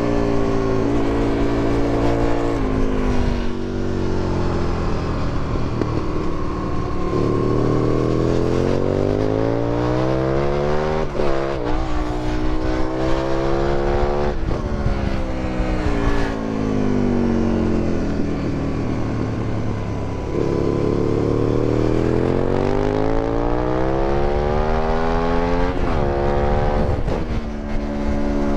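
2008 Aprilia Tuono 1000R's V-twin engine with an Akrapovic exhaust, revving hard through the gears. Its pitch climbs in long pulls, and it drops sharply at each gear change, with a cluster of quick rises and falls in the middle and again near the end.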